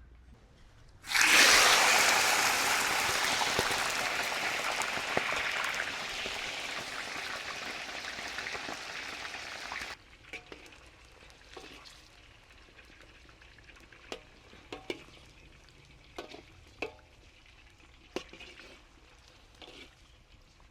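Food dropped into hot oil in a cooking pot, starting to sizzle loudly about a second in and slowly dying down. The sizzle stops abruptly about ten seconds in, leaving scattered light knocks.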